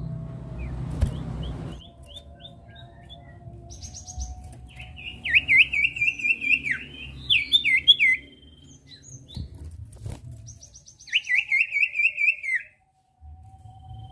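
Common iora (sirtu) singing: a few short whistled notes, then two bursts of rapid trilled notes repeated evenly, each lasting a few seconds.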